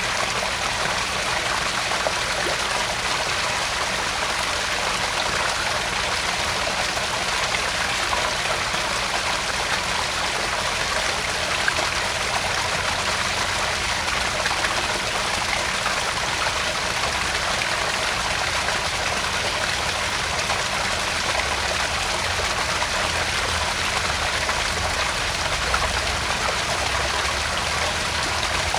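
Small garden-pond waterfall: water splashing and trickling steadily into the pond.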